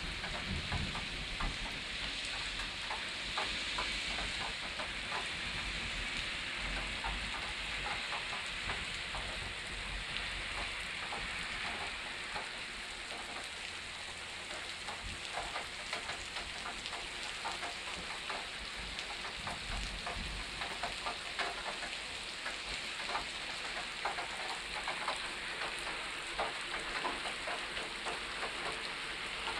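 Steady rain falling in a summer thunderstorm, a continuous hiss with many close drops tapping on a hard surface.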